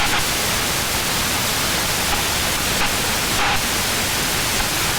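Cessna 172B in cruise flight: the steady, even hiss of its Continental O-300 six-cylinder engine and the airflow, heard in the cabin, with a low rumble beneath.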